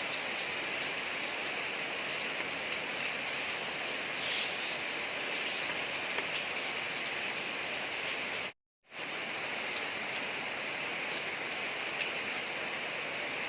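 Steady rain falling on a street, a dense even hiss with faint scattered drop ticks. About two-thirds of the way through, the sound cuts out completely for a fraction of a second, then resumes.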